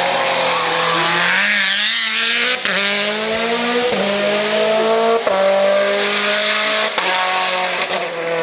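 Hill-climb race car accelerating hard out of a corner, its engine note climbing and dropping back with four quick upshifts roughly a second and a half apart.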